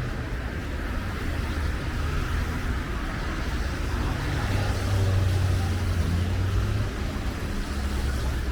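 Street traffic: cars running along the road, with one vehicle's engine rumble swelling as it passes close about halfway through.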